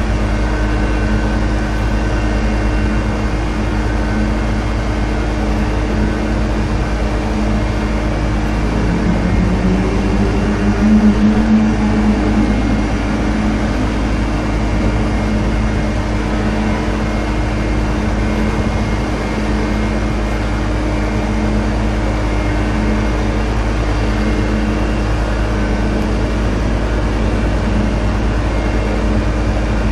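Steady drone of heavy engines with a low rumble underneath; about nine seconds in, one engine rises in pitch for a few seconds and then settles back.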